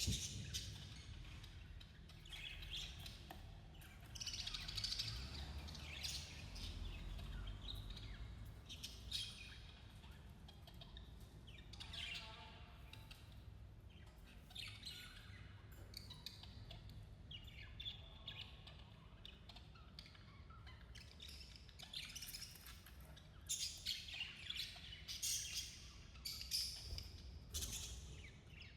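Budgerigars chirping and chattering in short, irregular calls, more of them and louder in the last third. A steady low hum runs underneath.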